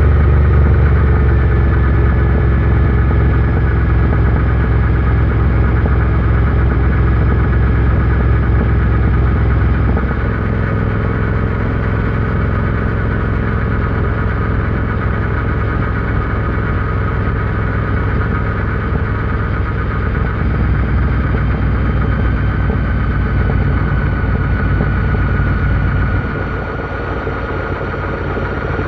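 Royal Enfield Interceptor 650's 648 cc parallel-twin engine running steadily. It gets quieter about ten seconds in and drops again near the end.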